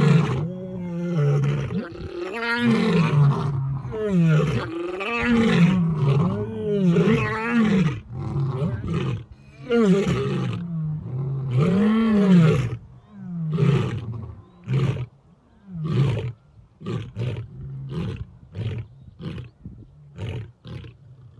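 Several lions roaring together in chorus, long overlapping roars rising and falling in pitch. In the last third the chorus trails off into a string of shorter grunting calls that grow fainter.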